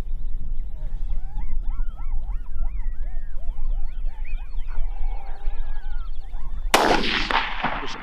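Coyote pup yips and whines from a predator call, a quick run of short rising-and-falling squeals. Near the end a loud gunshot rings out and echoes, followed by a second sharp crack.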